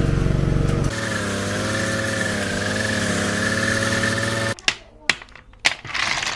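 Small petrol engine of a lawn mower running steadily, its note changing about a second in, then cutting off abruptly about four and a half seconds in. A few sharp clicks follow in the quiet.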